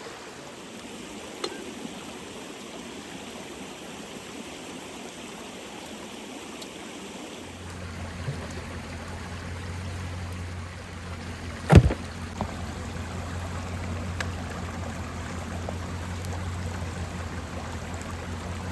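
Creek water flowing steadily, with a few small clicks. A low steady hum comes in a little before halfway, and a single sharp knock about two-thirds of the way through is the loudest sound.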